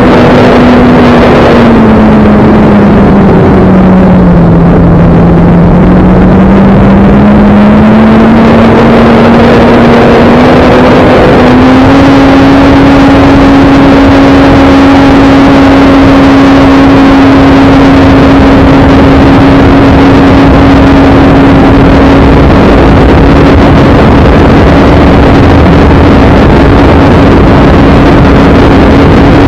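Electric motor and propeller of a Carbon Cub S2 RC airplane droning in flight over a loud rush of noise. The pitch sags over the first few seconds, climbs back, then steps up about twelve seconds in and holds steady.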